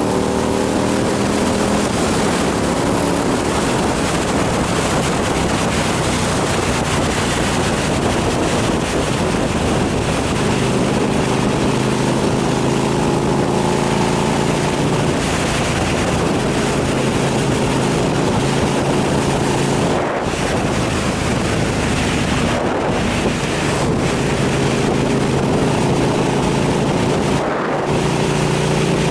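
KTM 990 SMR supermoto's V-twin engine running under way, its note holding fairly steady with a few brief dips, under heavy wind rush on the microphone.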